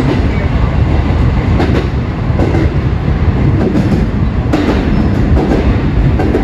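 Kintetsu commuter train running on the Nara Line, heard from inside the front car: a steady rumble of wheels on rail with a clack now and then as the wheels pass over rail joints and points.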